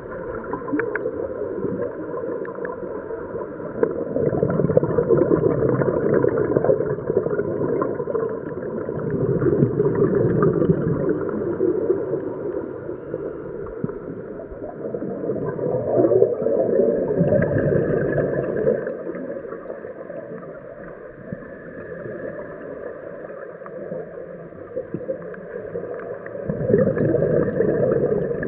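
Scuba diver's breathing on a regulator heard underwater: gurgling bursts of exhaled bubbles that swell and fade in slow waves every five to seven seconds.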